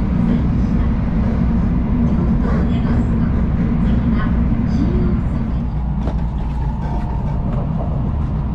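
Steady low rumble of a Tokaido Shinkansen train running, heard from inside the passenger car. The rumble eases slightly a little past halfway.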